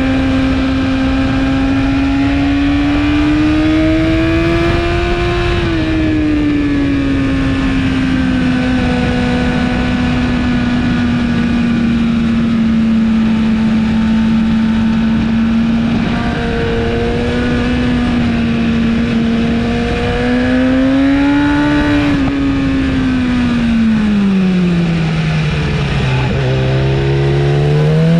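Inline-four engine of a BMW S1000RR with an Akrapovic exhaust, held at high revs at a fairly steady pitch. It rises briefly twice and falls back, then drops steadily to a low pitch as the bike slows, and climbs again near the end, with constant wind rush on the microphone.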